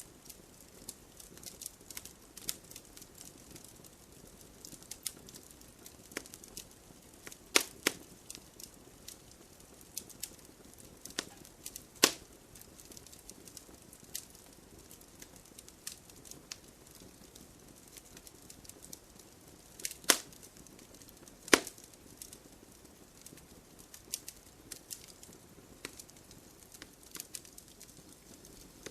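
Campfire burning wood: a soft steady hiss with irregular crackles, and a few louder sharp pops now and then.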